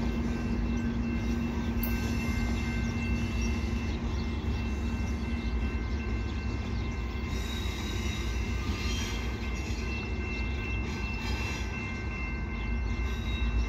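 Commuter train moving slowly through a station and over switches: a steady low rumble and drone, with patches of rattling wheel-on-rail noise partway through.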